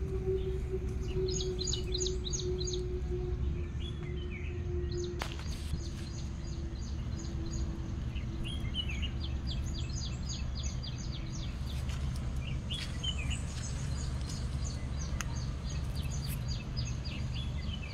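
Birds chirping, with quick runs of repeated high calls and short trills coming and going, over a steady low rumble. A faint steady hum fades out about two-thirds of the way through.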